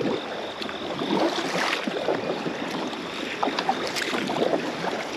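Water splashing and lapping around a small boat's hull on a river, with scattered small knocks and splashes.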